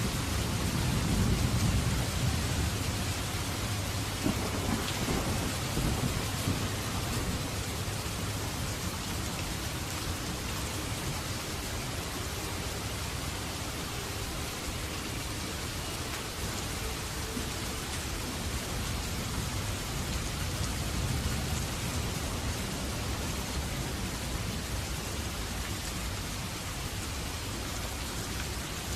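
Steady heavy rain, with a low rumble of thunder swelling in the first few seconds.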